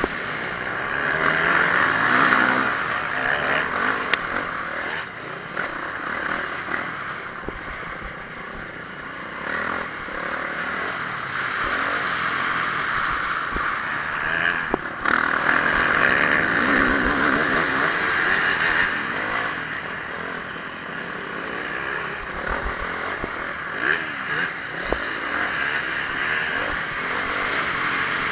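Honda CRF450R motocross bike's single-cylinder four-stroke engine revving and easing off in turn as it is ridden round a motocross track, under a heavy rush of wind noise.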